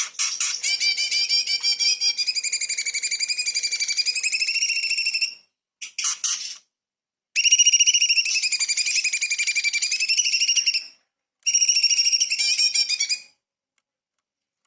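Orange-bellied leafbird (cucak cungkok) singing long, rapid trilled phrases. The song comes in four bursts: a long one of about five seconds, a short one, a second long one, and a shorter one near the end. Each burst starts and stops abruptly.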